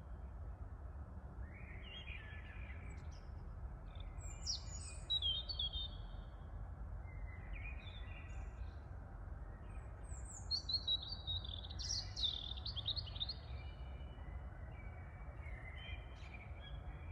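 Small birds chirping and singing in short calls and quick trilled runs, busiest twice in the middle, over a steady low rumble of wind and distant city noise.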